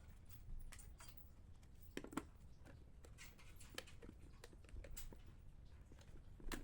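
Faint, irregular small clicks and taps, with a couple of louder knocks about two seconds in and near the end, over a low steady hum.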